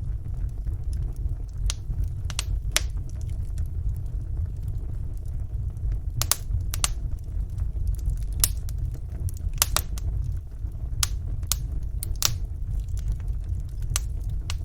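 Wood fire in a fireplace crackling: about a dozen sharp, irregular pops over a steady low rumble.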